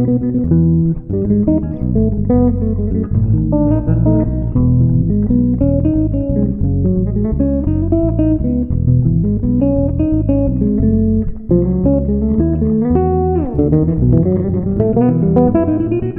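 Electric bass playing a gato cuyano arrangement: a steady run of plucked notes and chords, with a quick downward slide late on.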